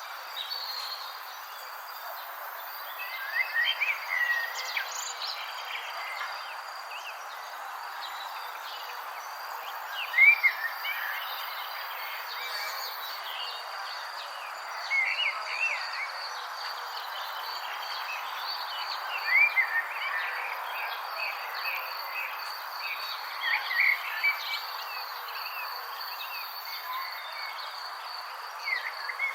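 Outdoor nature ambience: a steady high insect trill runs over a soft, even hiss, while a bird repeats a short phrase of curved whistled notes every four or five seconds.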